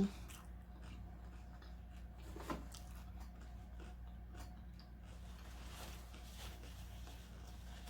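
Faint chewing and mouth sounds of someone eating tacos close to the microphone, with scattered small clicks over a steady low hum.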